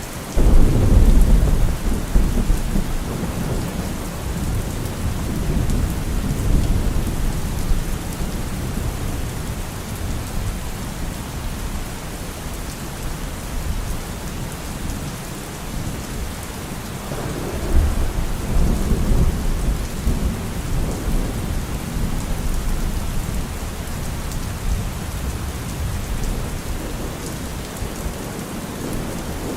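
Steady heavy rain with two rolls of thunder: a loud low crack and rumble just after the start that fades over several seconds, and a second long rumble starting a little past halfway.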